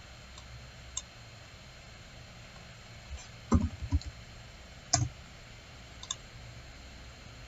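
Scattered sharp clicks from a computer's input devices, the sound of someone working at a desk: a single click about a second in, a quick cluster of clicks around three and a half to four seconds, another click near five seconds and a lighter one near six. A low steady hum runs underneath.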